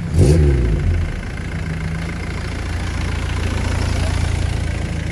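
Car engine running close by: a short blip of revs just after the start, then a steady, deep idle.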